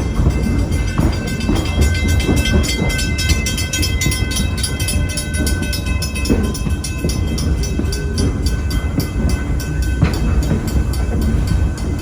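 Passenger train rolling along, heard from aboard a coach: a steady rumble with rapid clicking of the wheels over the rails, and a thin steady high whine through the first few seconds.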